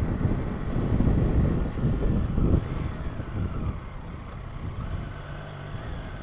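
Motorcycle engine running with wind rush while riding. The rush is loud for the first two and a half seconds, then drops as the bike eases off, leaving a steadier, quieter engine note.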